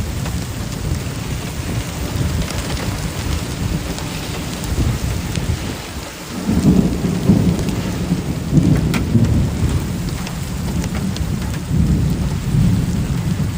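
Heavy rain pouring steadily, with a few sharp taps, and thunder rumbling low from about halfway through.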